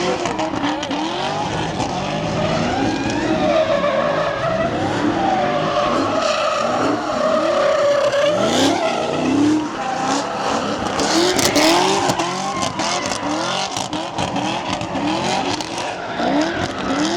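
A car doing donuts: its engine revs up over and over while the rear tyres squeal and skid in a wavering howl.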